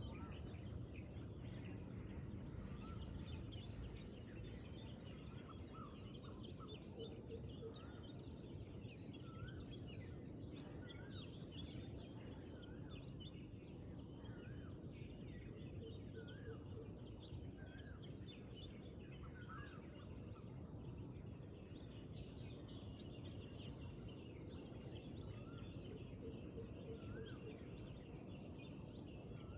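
Forest birdsong: short, looping whistled notes repeated every second or two, with a few short low pulsed calls now and then, over a steady high-pitched thin tone and a low background rumble.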